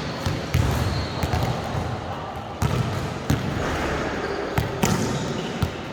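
Volleyball rally: a string of sharp smacks as the ball is struck, about half a dozen at uneven intervals, with players' voices in the background.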